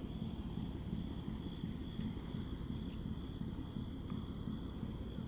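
Insects chirping in a steady, unbroken drone, over a louder low rumble.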